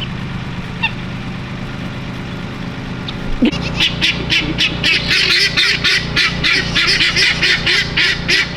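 A steady low hum, then, about three and a half seconds in, a bird starts giving harsh, rapid calls, about three a second, which carry on to the end.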